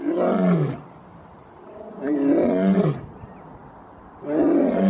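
A man imitating a lion's roar with his voice: three loud, drawn-out roars of about a second each, each sliding down in pitch at the end.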